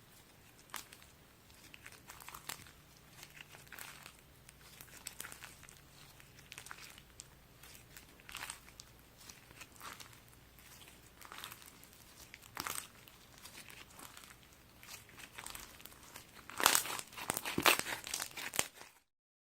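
Pill slime being squeezed and pressed by hands, giving sparse crackling and crinkling pops. Near the end the crackles come thick and loudest, then the sound cuts off abruptly.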